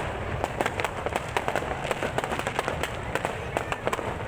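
Fireworks crackling and popping without a break, many sharp reports a second.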